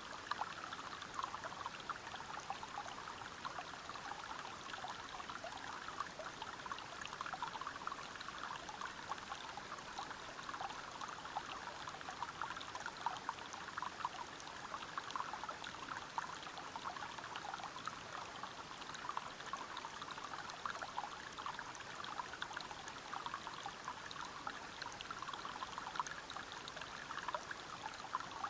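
River water tumbling over rocks at a small waterfall: a steady rushing with many small splashes.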